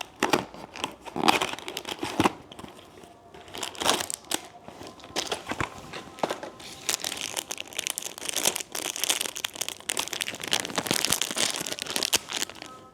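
Plastic wrapper of a biscuit-stick snack packet crinkling as it is handled and torn open. Sharp irregular crackles give way to denser, continuous rustling in the second half.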